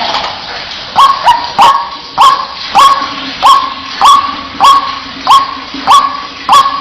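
White-breasted waterhen (ruak-ruak) calling: a loud 'wak' repeated evenly, about one and a half to two calls a second, each sweeping sharply up and then held briefly. The even run begins about a second in, after a more jumbled stretch of calls.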